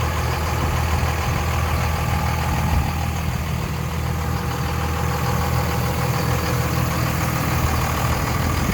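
2001 Dodge Ram 2500's 5.9-litre 24-valve Cummins turbo diesel idling steadily.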